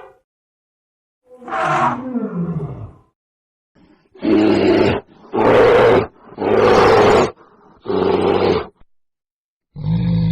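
A big cat roaring: a short call falling in pitch, then four loud, rough roars in a row about a second apart. A lower, steadier call starts near the end.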